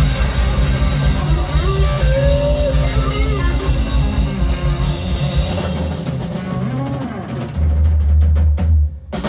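Rock band playing, with drum kit, electric guitar and bass. Near the end the song closes on a held low bass note under a run of drum and cymbal hits, then cuts off.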